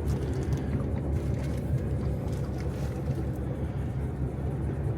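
Small tender boat's motor running steadily while underway: a continuous low hum, with water and wind noise.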